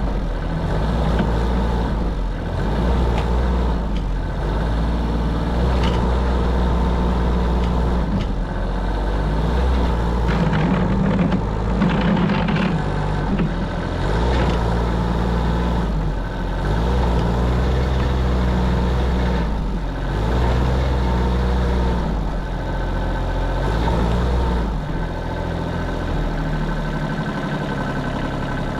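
Small diesel engine of a 1978 Kubota B6100 compact tractor running hard under load while pulling a stuck car from snow. Its note rises and falls in surges every few seconds and eases off near the end.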